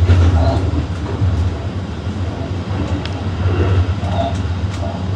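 Tokyu Toyoko Line electric commuter train running along the track, heard from inside the front car: a steady low rumble with a few faint clicks.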